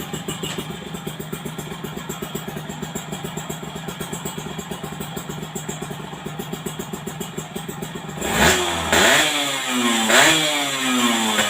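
Yamaha Fiz R two-stroke single running through an AHM aftermarket racing exhaust: it idles with a fast, even pulsing note, then about eight seconds in the throttle is blipped twice, the pitch climbing sharply and falling back each time.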